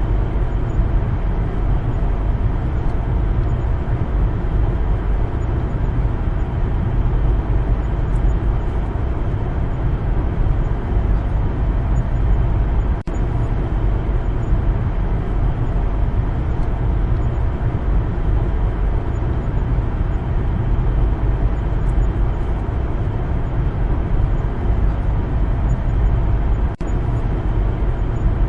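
Car driving along a road: a steady low rumble of tyre and engine noise that dips briefly twice, about halfway and near the end.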